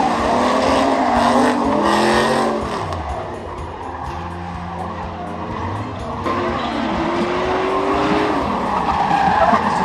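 Race car engines running on a speedway track, their pitch dropping about two and a half seconds in and climbing again from about six seconds.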